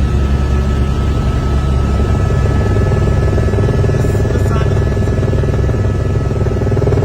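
Helicopter in flight: a loud, steady engine and rotor drone with a few thin, constant high whining tones over it.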